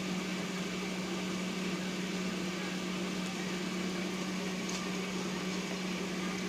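Steady machine hum on one constant low pitch with a faint hiss over it, and a faint tick about three quarters of the way through.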